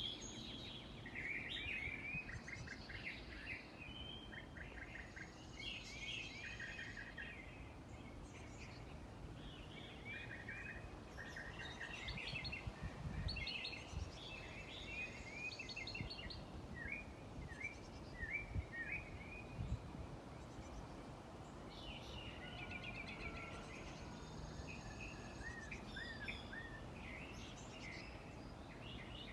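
Several songbirds chirping and singing at once, a lot of racket of repeated short chirps and trills, over a steady low background rumble. A few low thumps come through near the middle.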